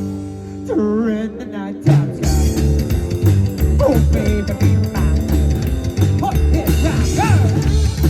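Live rock band music: a held, wavering note that breaks off about two seconds in, after which the full band comes in on a steady beat with electric guitar, bass and drums.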